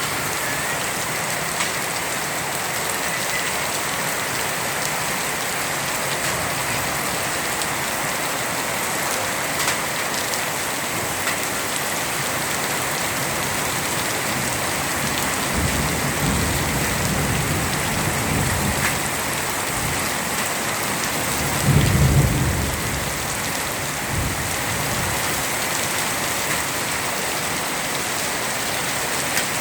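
Heavy rain pouring steadily, a dense even hiss of drops on surfaces. About halfway through a low rumble of thunder rolls in, loudest a few seconds later, then fades back under the rain.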